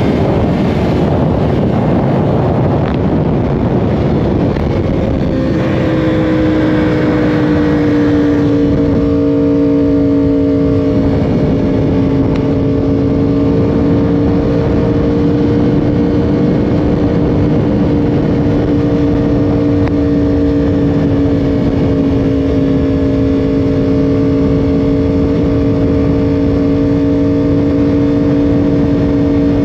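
Yamaha R1's inline-four engine running under way with wind rushing past; about five seconds in the engine note settles and then holds a steady, even tone as the bike cruises.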